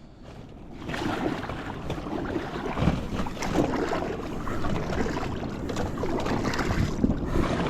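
Paddle strokes splashing as a fishing ski (sit-on-top paddle ski) is paddled across the sea, with wind buffeting the microphone. The sound builds up about a second in.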